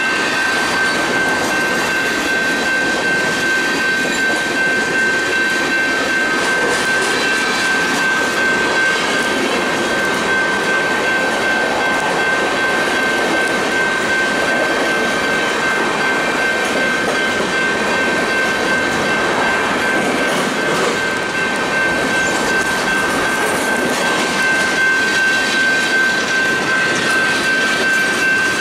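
A freight train's gondola cars rolling past close by, the wheels rumbling and clacking steadily on the rails. Over them the crossing's warning bell rings as one steady high tone.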